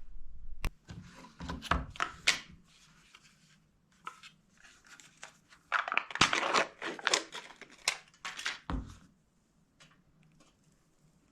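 Rustling, crinkling and sharp knocks of things being handled, in two bouts a few seconds apart.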